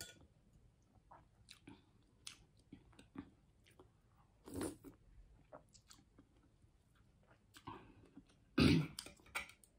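A person chewing and eating lomi noodles close to the microphone: a run of short, soft wet mouth clicks and smacks, with a louder sound about halfway through and a louder cluster near the end.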